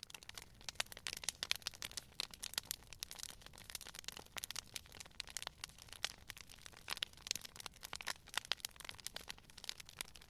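Campfire burning, with frequent irregular crackles and pops of burning wood over a low steady rumble of flame.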